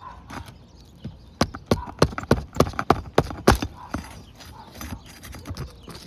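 A quick run of about nine sharp knocks of a hand tool working at a stubborn staple under a roof shingle, starting about a second and a half in and lasting about two seconds.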